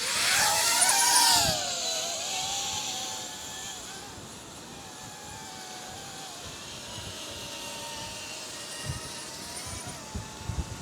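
DJI Avata 2 FPV drone taking off: the motors and propellers spin up with a loud rising whine. After about two seconds it settles into a quieter, steady buzzing hum that wavers in pitch as the drone flies off. A few soft bumps come near the end.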